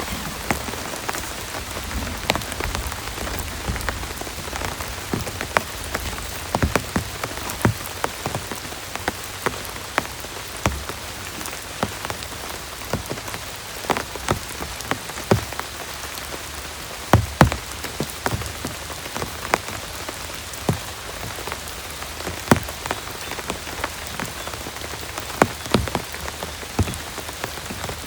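Heavy rain falling steadily, with irregular sharp taps of large drops striking a surface close by.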